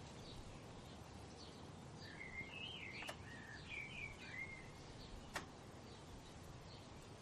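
Songbirds singing: one bird gives a warbling phrase of twisting, gliding whistled notes lasting about two and a half seconds, over faint short chirps repeated by another bird and a steady soft hiss. Two sharp clicks come about three and five seconds in, the second the loudest sound.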